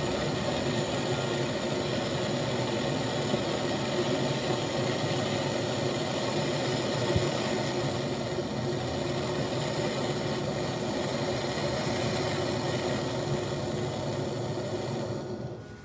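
A machine running steadily, a continuous mechanical hum with a noisy hiss over it, that drops away shortly before the end.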